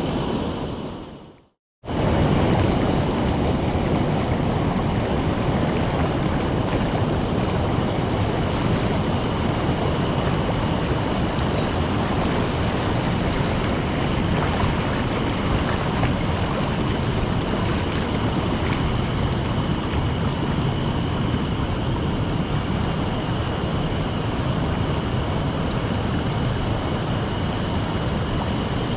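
Mountain stream water rushing in a steady, even roar, with a faint thin steady tone above it. The sound fades out just after the start and cuts back in abruptly about two seconds in.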